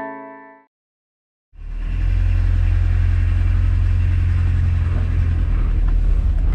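Car engine and road noise as a steady low rumble from a Volkswagen MK2 Jetta diesel on the move, starting abruptly about a second and a half in. It comes in just after the tail of the intro music fades out.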